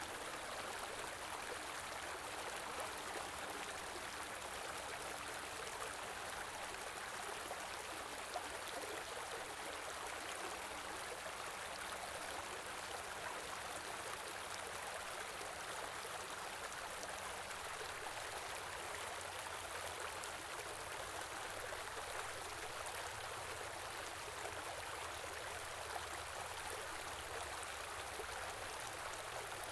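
Small winter stream flowing steadily, a continuous rushing and burbling of water with a few faint droplet ticks.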